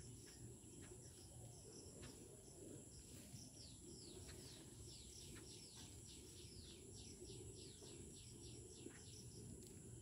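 Faint steady high insect drone. About three and a half seconds in, a bird gives a quick series of high, falling notes, roughly three a second, lasting about four seconds.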